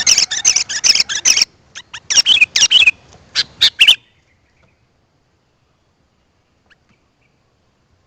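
Sooty-headed bulbul (kutilang) calling: quick runs of high chirping notes in several phrases, cutting off suddenly about four seconds in.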